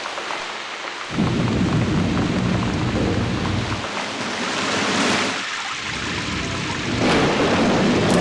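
Steady rain falling with thunder rumbling; the low rumble swells about a second in, fades in the middle and comes back near the end.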